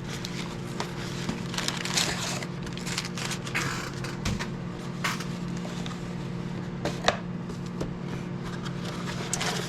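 Cardboard shipping box being opened and its packing handled by hand: scattered crackles, scrapes and clicks of cardboard and paper, over a steady low hum.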